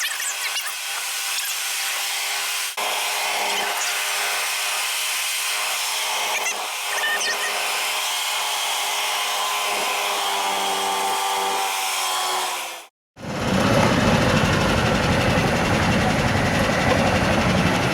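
Dirt-bike engines whining at high revs, their pitch wavering up and down. After a sudden cut about thirteen seconds in, a steady low rumble of a moving vehicle with road and wind noise.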